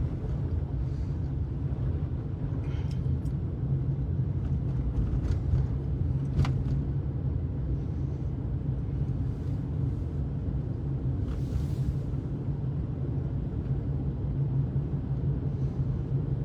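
Steady low rumble of a car driving slowly on a snow-covered road, heard from inside the cabin, with a few faint ticks scattered through it.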